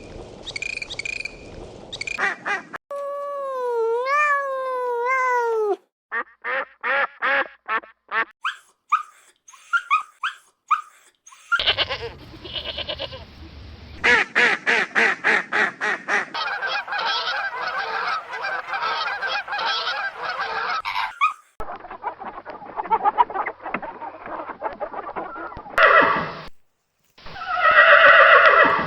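A run of short, cut-together clips of animal calls, mostly repeated honking and quacking calls like farm geese and ducks. Each clip breaks off abruptly into the next. One holds a single wavering call, one has calls about twice a second, one has rapid calls about four a second, and the loudest calls come near the end.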